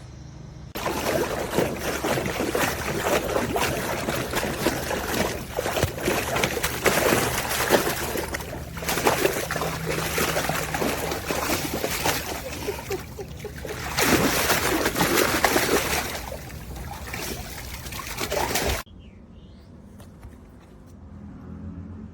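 Water splashing and trickling in a hard-plastic dog pool, loud and uneven, starting about a second in and cutting off suddenly near the end.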